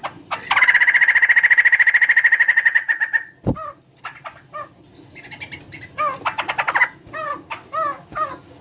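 Poksay (laughingthrush) calling: a long, fast rattling call for about two and a half seconds, then a series of short down-slurred notes with another brief rattle partway through.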